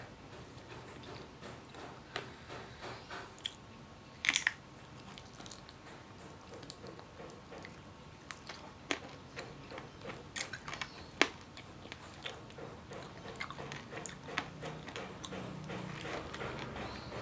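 Close-up eating sounds: a person chewing and biting into a meal of rice and chicken, with scattered sharp clicks and smacks, the loudest a short cluster a little after four seconds in.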